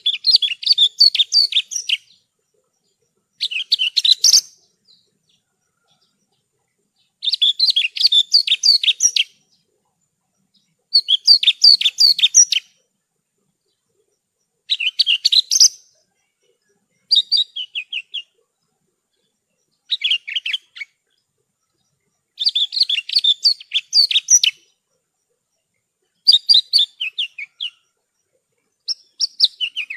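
Javan bush lark (branjangan) singing: quick, varied chirping phrases of one to two seconds each, about ten of them, separated by short silent gaps.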